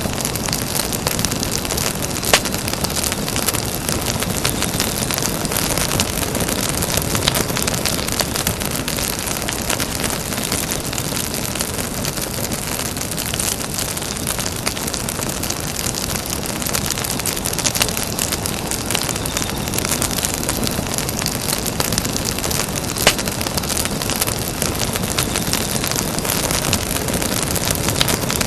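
Campfire burning with a steady hiss and dense fine crackling, with two sharper pops, one about two seconds in and another about twenty-three seconds in.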